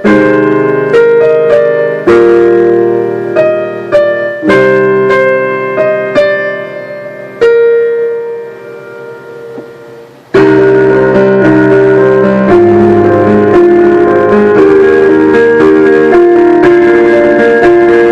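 Solo piano playing: a melody over chords, each note struck and fading, slowing to a long fading note. About ten seconds in it cuts abruptly to a louder, denser passage of held notes as another song in the medley begins.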